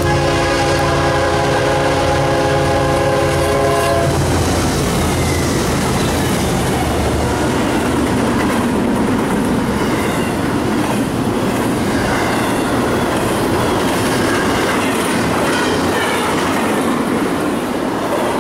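The horn of a CSX GE ES40DC locomotive sounds one steady multi-note chord for about four seconds as a double-stack intermodal train approaches. Then the diesel locomotives pass, and the container cars roll by with a continuous noise of wheels on rail.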